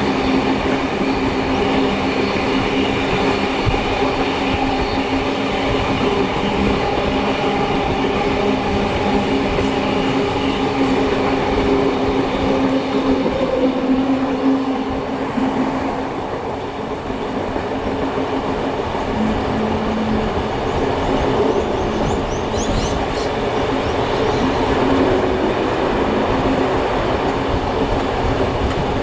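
Heritage steam-hauled passenger train running, heard from on board: a steady rumble of the carriages on the rails with a low hum. There are a few brief high squeaks about two-thirds of the way through.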